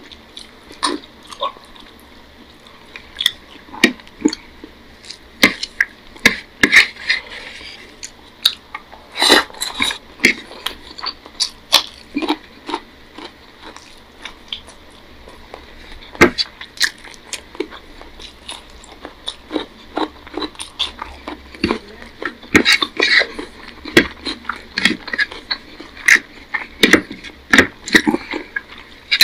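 A person eating rice and curry by hand: chewing with irregular sharp mouth clicks and smacks, along with fingers mixing rice on a plate.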